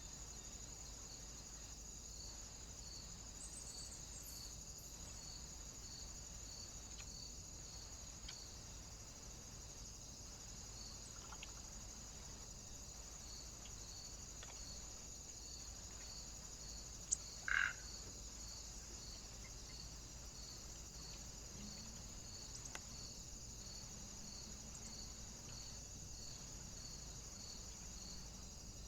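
Faint night-time chorus of small animal calls: short high chirps repeating about twice a second over a steady high-pitched trill. About two-thirds of the way through there is one short, louder sound.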